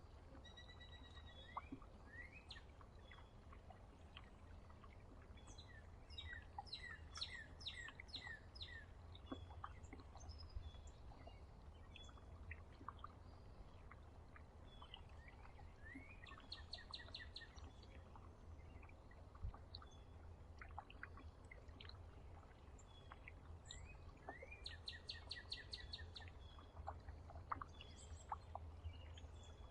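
Wild songbirds calling and singing, faint: short chirps and whistles throughout, with one phrase of quick repeated notes coming back about every nine seconds. A low steady rumble lies underneath.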